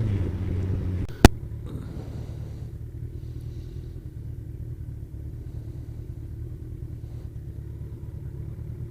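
Motorcycle engine running at a steady pitch for about a second, then one sharp click, followed by a low steady rumble while riding.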